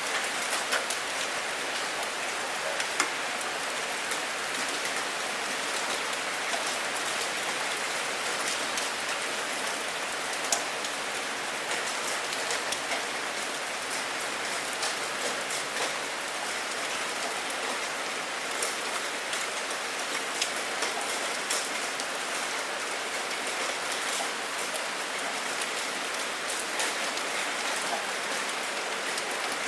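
Steady rain falling, a constant hiss with the sharp ticks of single drops hitting close by scattered all through it. No thunder.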